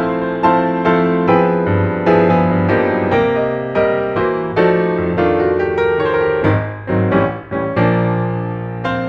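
Background piano music: a gentle melody of struck notes and chords, about two a second, ending on a chord left to ring.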